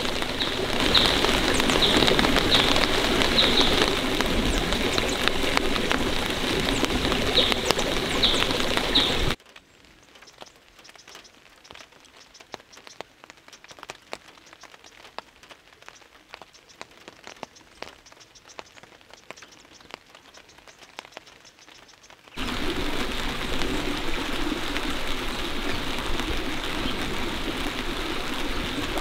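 Steady rain falling, with short bird calls over it in the first part. About nine seconds in it cuts abruptly to a much quieter patter of scattered drops, and the heavier rain comes back suddenly for the last several seconds.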